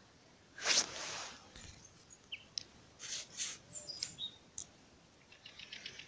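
Small birds chirping in short, scattered calls, with a quick run of rapid notes near the end. A brief rush of noise just under a second in is the loudest sound.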